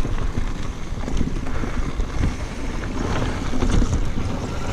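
Wind rushing over the microphone while a mountain bike rolls down a dirt trail, with scattered small clicks and rattles.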